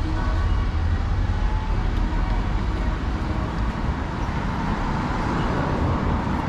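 City street traffic noise: cars and other road vehicles running past with a steady low rumble.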